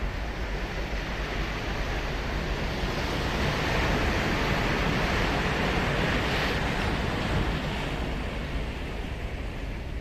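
Ocean surf breaking on the beach: a wave's wash swells from about three seconds in, peaks in the middle and eases off near the end.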